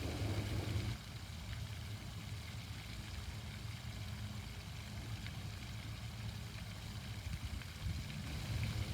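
Running water from a fountain hissing steadily, under a steady low engine-like drone that is louder in the first second.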